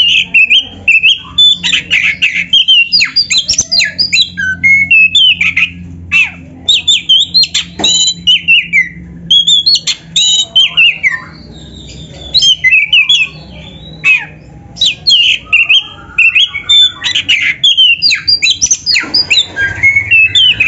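Black-breasted oriental magpie-robin (kacer) singing a loud, rapid, varied song of short sliding whistles and chattering notes in quick runs, broken by brief pauses.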